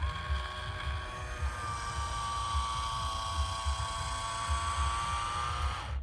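Small electric motor and gearbox of an RC construction toy whining steadily, rising slightly in pitch, over low thumping, then cutting off suddenly near the end.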